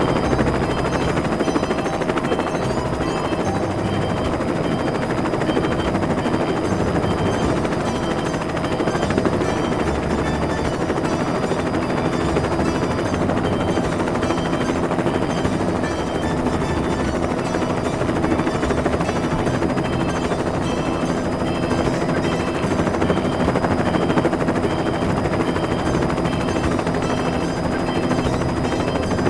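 Helicopter rotor sound from a toy rescue helicopter: a fast, steady chopping rattle with a few steady electronic tones underneath.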